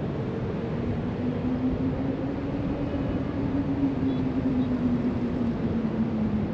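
Steady hiss of surf breaking along the shore and wind over the rooftop. About a second in, a distant engine hum rises out of it and slowly drops in pitch, the drone of a passing vehicle or aircraft.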